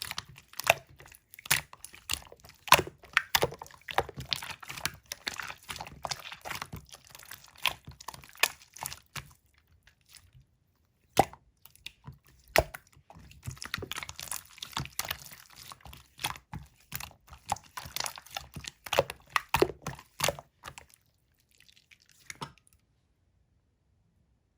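Clear slime being pressed and squished by hand, giving rapid wet clicks and pops. It pauses briefly about ten seconds in, starts again, and dies away about two seconds before the end.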